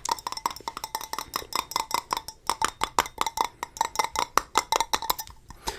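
Rapid fingertip tapping on a hard object close to the microphone: quick, uneven taps several a second, many with a short ringing note, stopping shortly before the end.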